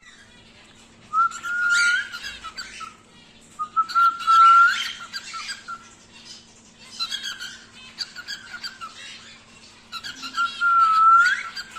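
Young normal grey cockatiel whistling its song in four phrases. Each phrase is a long level whistle that lifts in pitch at its end, mixed with scratchy chatter.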